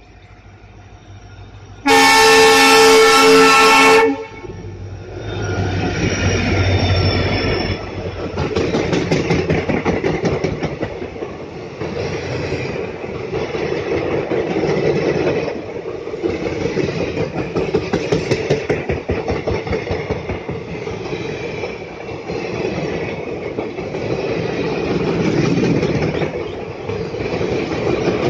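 A WDP4D diesel locomotive sounds its air horn in one loud blast of about two seconds as it approaches, then runs past with a low engine rumble. A long rake of ICF passenger coaches follows, clattering over the rail joints in a steady, pulsing rhythm.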